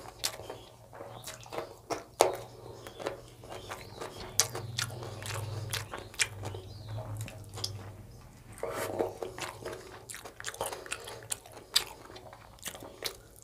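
Close-miked mouth sounds of a man chewing a handful of rice and chicken curry: wet chewing and lip smacks with many short sharp clicks.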